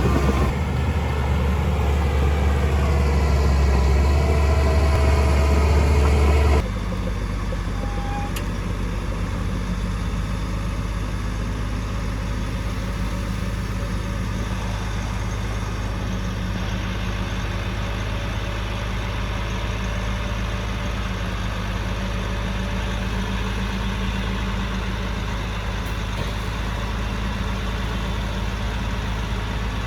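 Heavy construction-machine diesel engine running steadily. About six seconds in, the sound changes abruptly to a quieter, steady engine drone.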